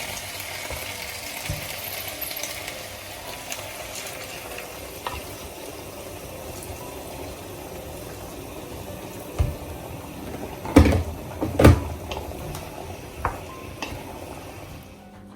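Food sizzling in a frying pan, the hiss slowly dying down, with a few sharp knocks of a utensil against the pan in the second half.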